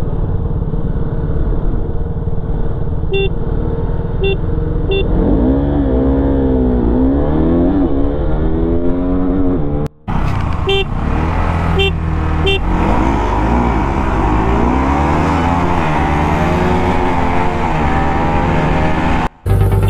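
KTM RC 200's single-cylinder engine running under way, its pitch repeatedly climbing and dropping as the throttle is opened and eased through the gears. Two sets of three short beeps sound over it, the first set about three seconds in and the second about eleven seconds in.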